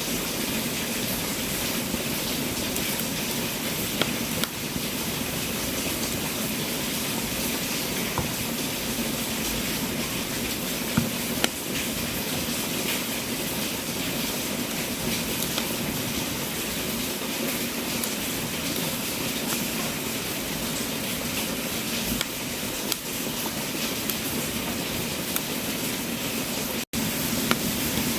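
Wood fire burning in a fireplace: a steady hiss with occasional sharp crackles and pops. The sound cuts out for an instant near the end.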